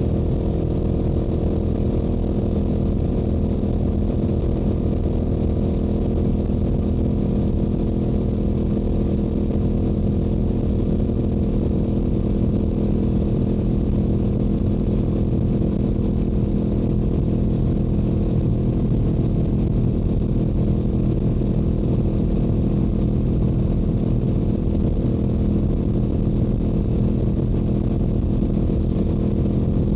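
Yamaha YZF-R7's parallel-twin engine through its stock exhaust at a steady highway cruise, its note holding one pitch, with wind rumble on the microphone.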